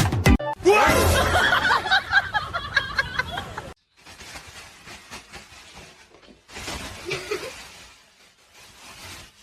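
A person laughing and snickering for about three seconds, cut off abruptly. It is followed by a much quieter stretch of faint, indistinct sounds.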